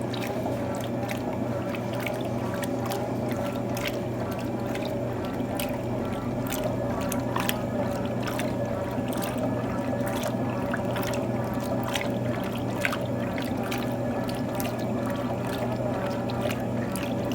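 Electrolux TOP8A top-loading washing machine running with water in the tub: a steady motor hum with frequent short splashes and sloshing.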